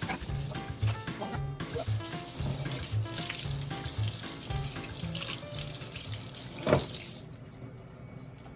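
Kitchen tap running into a sink, a steady rush of water that shuts off about seven seconds in, under background music with a regular beat.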